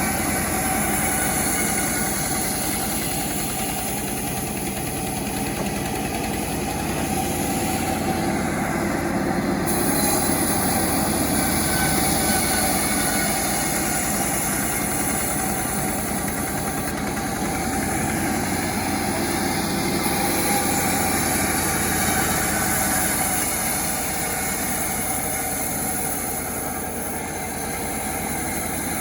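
Self-assembled chainsaw's small engine running steadily, its level rising and falling gently.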